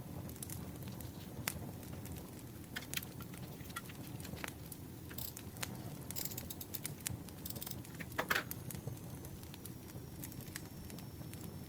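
Campfire crackling: a steady low rumble with scattered sharp pops and snaps, and a brief rustle about eight seconds in.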